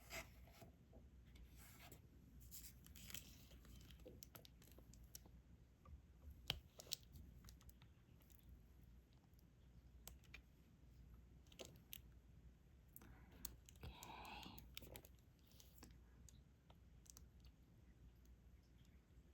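Faint, scattered clicks and taps of diamond-painting drills being picked up with an applicator pen and pressed onto the sticky canvas, with a longer rustle about two thirds of the way in.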